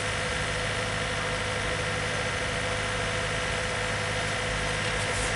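Engine of road-building machinery idling, a steady, unchanging hum.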